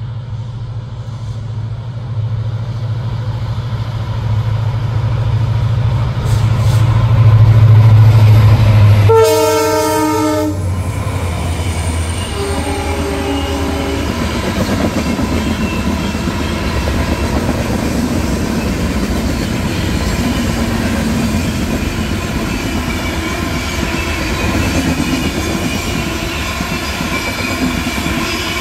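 Indian Railways express train passing close by: the locomotive's engine hum builds as it nears, it sounds a loud horn blast about nine seconds in and a quieter second horn note a few seconds later, then the coaches rumble past with wheel clatter.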